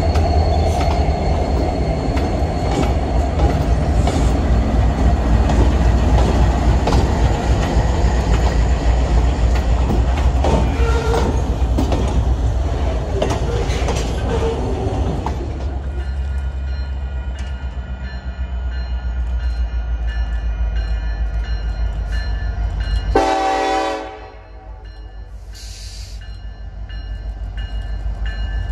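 Norfolk Southern diesel locomotives rumbling past at close range, then double-stack container cars rolling by with steady wheel and rail noise that gradually eases off. After a sudden cut, a diesel locomotive's air horn sounds a short blast, and another blast begins at the very end.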